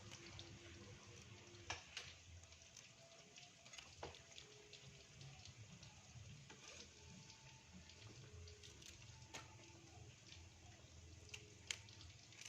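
Tempeh frying in hot oil: a faint, steady sizzle with a few sharp pops.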